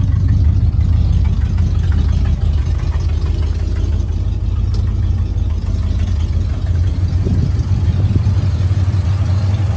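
1977 Ford F350's 400 V8 idling steadily.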